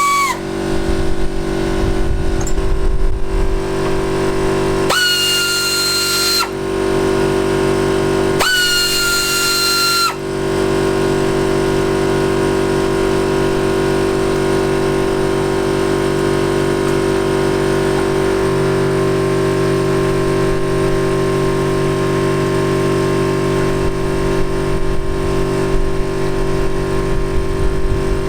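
A cordless power driver spinning out the engine's sump bolts in short bursts of high whine: one run winds down just after the start, then two more of about a second and a half each, a few seconds apart. A steady drone of background tones runs underneath.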